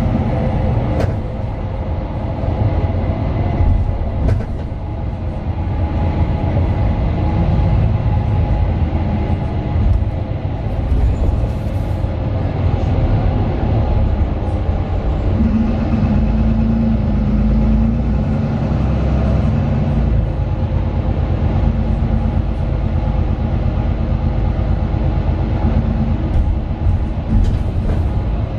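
Inside a Mercedes-Benz Citaro 2 city bus under way: its OM 936 six-cylinder diesel and ZF Ecolife automatic gearbox running, with a steady rumble of the body and road. The engine note changes pitch about halfway through.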